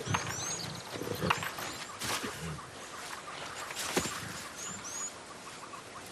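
Lions growling low, with several sharp snaps and cracks.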